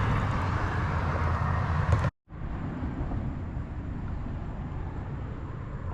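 Boat motor running steadily, a low hum under wind and water noise. The sound cuts out for a moment about two seconds in, then continues slightly quieter.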